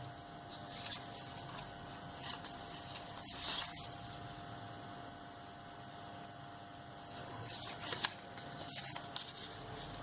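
Paper strips being handled and slid into place on a tabletop: a few short, soft rustles and scrapes, the loudest about three and a half seconds in, over a faint steady hum.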